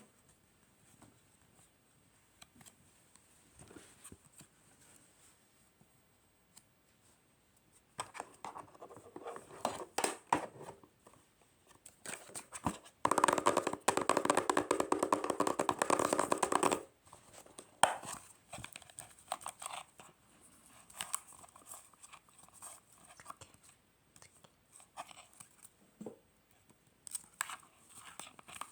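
Paper being handled: scattered soft rustles and taps, then a continuous tearing sound lasting about four seconds, the loudest thing here, followed by more small crinkles.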